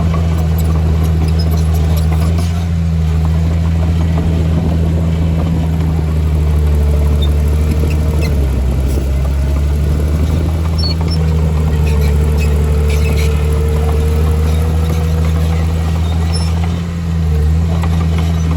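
Heavy diesel engine of earthmoving machinery running steadily with a deep, even drone. A faint higher whine wavers above it, and the engine briefly eases off about halfway through and again near the end.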